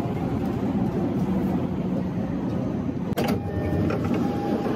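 Steady rumble of a commuter train running into a station platform. About three seconds in the sound breaks off with a click, and a steady high electronic tone follows for a little over a second as passengers step off through the doors.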